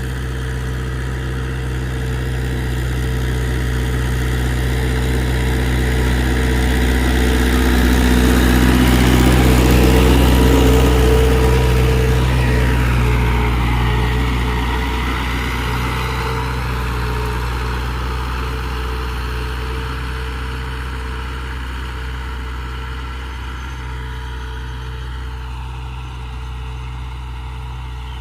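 Mahindra tractor's diesel engine running steadily. It grows louder to a peak about ten seconds in, then fades as it moves away, its pitch dropping slightly as it passes.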